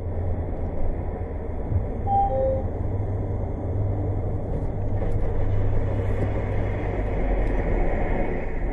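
Steady rumble of a moving vehicle's engine and road noise, as picked up by a dashcam, with a brief two-note beep, higher then lower, about two seconds in.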